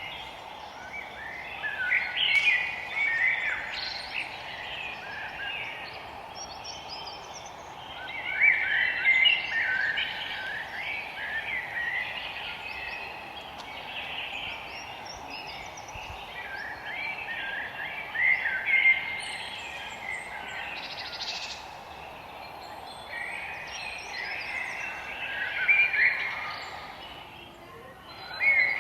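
Songbirds singing in a forest, in bouts of quick, warbling, chirping phrases that come roughly every six to eight seconds, over a steady background hiss.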